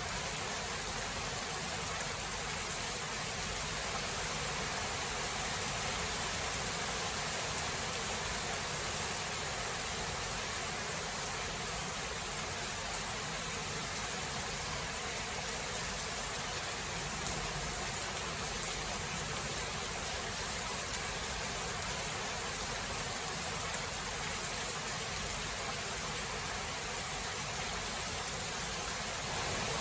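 Steady, even hiss of heavy rain, with a few faint ticks.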